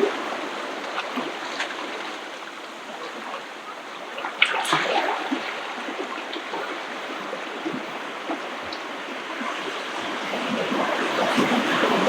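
Ocean surf washing onto the shore in a steady hiss, with one wave breaking sharply about four and a half seconds in and the wash building again near the end.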